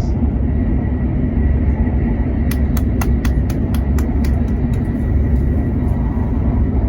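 Shinkansen train running at speed, heard inside the passenger cabin: a loud, steady low rumble. About two and a half seconds in comes a quick run of sharp clicks, about five a second for two seconds.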